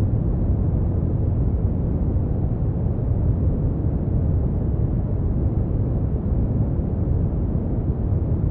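Brown noise: a steady, even deep hiss, heaviest in the bass and fading out toward the treble, with no changes.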